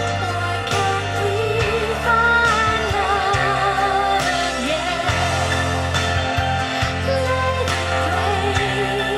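Female soprano voice singing a slow, sustained melody with wide vibrato over orchestral backing and held bass notes.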